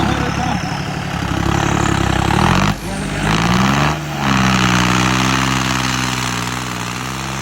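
John Deere 5310 tractor's diesel engine revving hard: its pitch climbs, drops off briefly, climbs again, dips once more, then holds high and slowly eases down.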